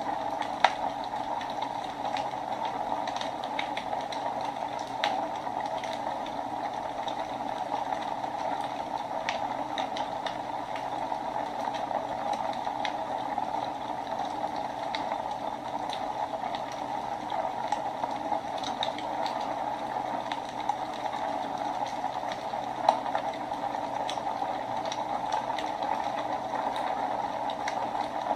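Wood fire burning in a fireplace: a steady hiss with scattered crackles, and two louder pops, one within the first second and one near the end.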